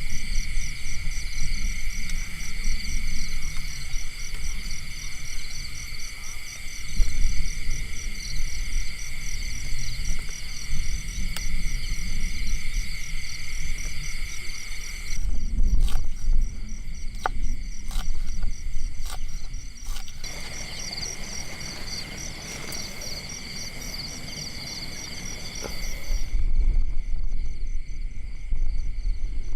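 Night insects calling in a steady, fast-pulsing high drone that drops away near the end, over a low rumble, with a handful of sharp clicks partway through.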